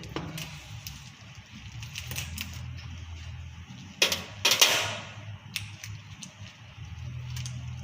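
Dissection scissors snipping through a chicken carcass: a few light clicks, then two loud sharp snaps about four seconds in, over a low steady hum.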